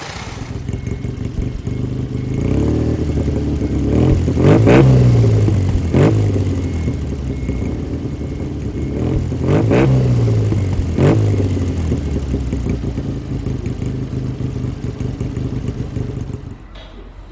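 Datsun Sunny Truck's four-cylinder engine idling through a loud dual exhaust, revved up and back down twice, settling back to idle each time.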